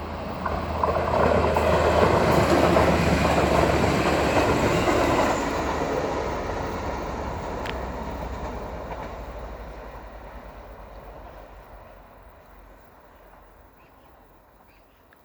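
Train passing a level crossing close by: loudest in the first few seconds, then fading steadily as it moves away until it is nearly gone.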